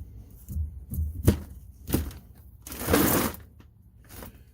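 Metal hand-tool knocks and clanks at the rear differential cover bolts of a 2004 Dodge Ram 1500, with a louder rough rasping burst lasting nearly a second about three seconds in.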